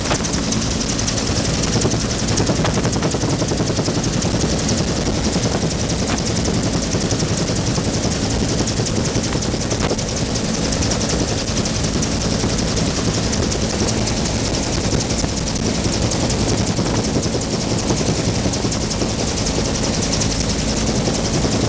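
Bell UH-1 "Huey" helicopter in flight: steady turbine and rotor noise with a fast, even rotor beat.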